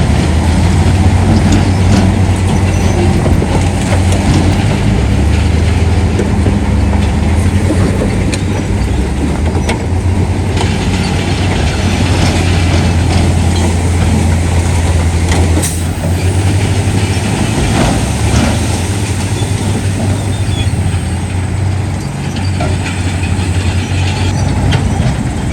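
Heavy diesel earthmoving machinery running with a steady, loud low engine drone, and scattered metallic clanks and rattles on top.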